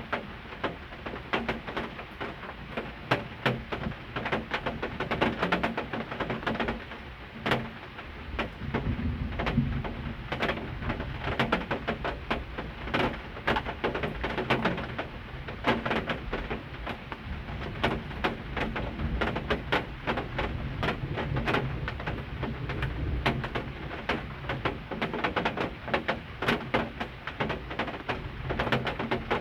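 Heavy rain falling, a dense, irregular clatter of drop hits that keeps on steadily, with pigeons cooing low underneath.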